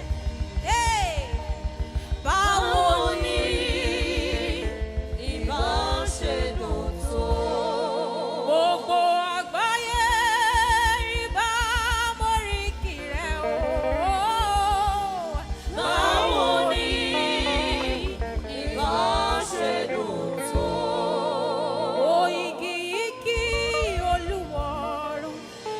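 Gospel worship music: a singer's long melismatic runs with heavy vibrato over band accompaniment, whose low bass pulse drops out about eight seconds in.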